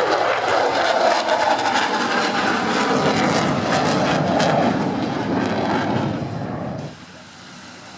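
Jet noise from a Dassault Rafale fighter's engines in flight: a loud, crackling roar that drops away abruptly near the end.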